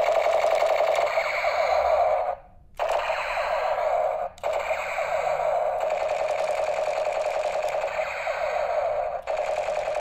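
Toy gun firing a fast, continuous rattle of clicks, with short pauses about two and a half seconds in, just past four seconds and near the end.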